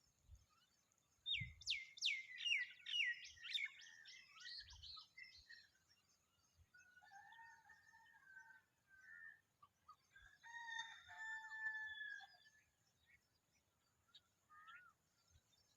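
Bird calls: a quick run of about eight sharp notes, each falling in pitch, in the first few seconds, followed later by two longer drawn-out calls.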